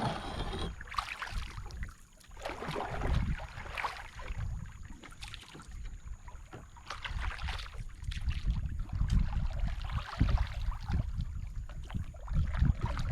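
Water and boat noise on a small fishing boat: an uneven low rumble with scattered knocks and splashes.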